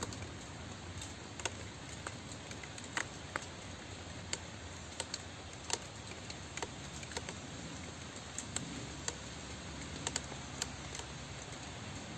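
Steady rain falling, with individual drops striking a surface as sharp, irregular ticks, one or two a second.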